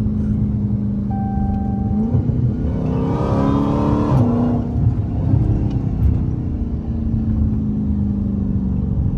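Dodge Challenger's engine heard from inside the cabin. It runs steadily, then speeds up with rising pitch for about two seconds from roughly two seconds in, drops back, and settles into a steady drone that slowly falls in pitch.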